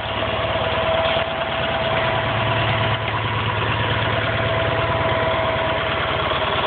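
Sears SS/16 garden tractor's Onan engine running at a steady idle: an even, rapid firing beat with a faint steady whine over it.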